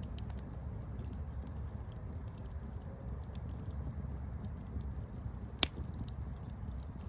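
Campfire crackling: a steady low rumble of flames with scattered small pops, and one sharp, loud pop about five and a half seconds in.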